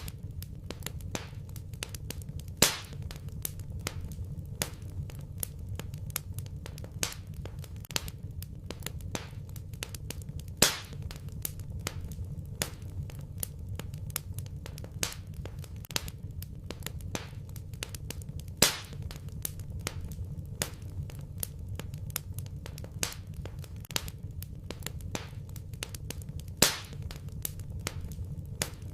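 Wood fire crackling in a fireplace: a steady run of small crackles over a low rumble, with a louder pop about every eight seconds.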